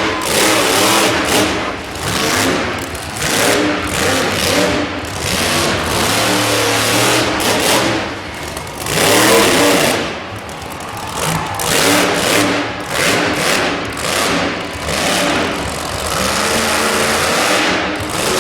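Monster truck engine revving hard in repeated surges, its pitch climbing and dropping, loudest about nine seconds in.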